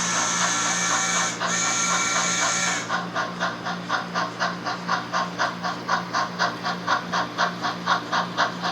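HO scale model steam locomotive's sound decoder playing a steam hiss over rhythmic chuffing. The hiss stops about three seconds in, leaving fast, even chuffs at about four to five a second over a steady low hum.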